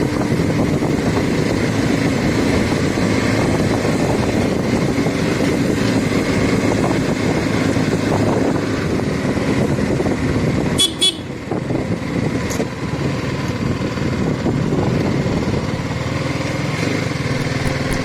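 BMW G 310 GS single-cylinder motorcycle being ridden, its engine running steadily under the rush of riding noise. About eleven seconds in there is a brief high-pitched beep.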